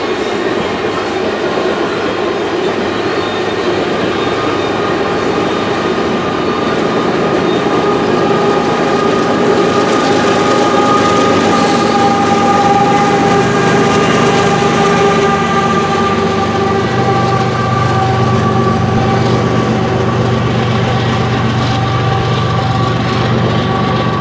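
Loaded coal hopper cars rolling past, their steel wheels clacking and running with a steady high squeal. About halfway through, the rear distributed-power locomotive, a GE ES44AC, goes by. In the last third the deep drone of its diesel engine comes up as it draws away.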